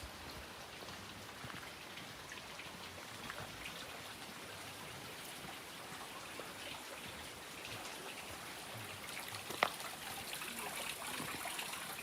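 Water trickling and dripping: a steady wash with many small scattered drops, a little louder toward the end, and one sharp click about two-thirds of the way in.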